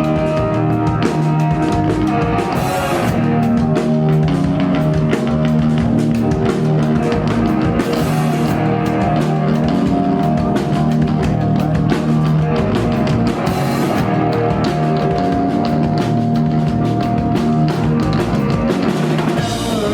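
Rock music with a drum kit and guitar, loud and steady, with cymbal crashes every five or six seconds.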